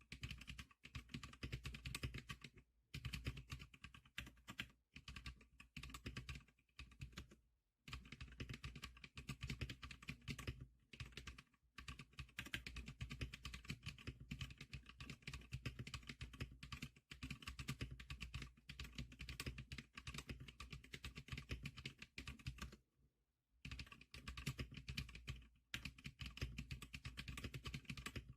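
Typing on a computer keyboard: a rapid, continuous run of key clicks, broken by a few short pauses.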